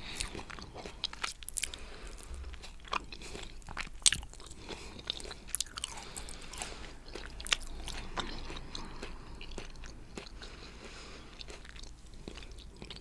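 Close-miked eating of coconut cheesecake topped with whipped cream and coconut flakes: wet chewing and mouth sounds with many sharp, short clicks.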